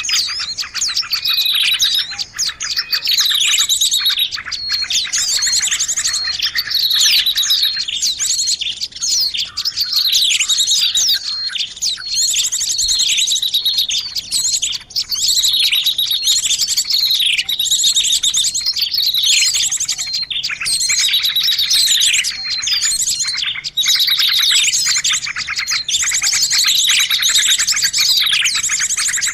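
A dense, noisy chorus of many small birds chirping and twittering over one another without a break, full of quick falling whistled notes and fast high trills. It is a bird-lure (pikat) sound of the kind played to draw in birds of all kinds.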